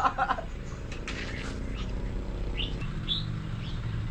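Birds chirping outdoors: a couple of short, quick chirps about two and a half and three seconds in, over a steady low rumble.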